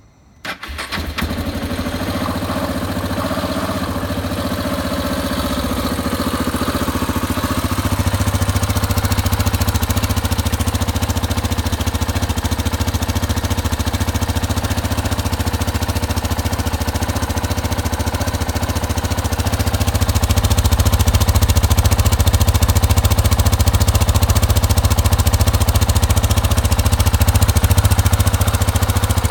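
KTM 690 Enduro R's single-cylinder four-stroke engine starting about half a second in, then idling steadily through its stock exhaust muffler. It gets a little louder after about eight seconds and again after about twenty.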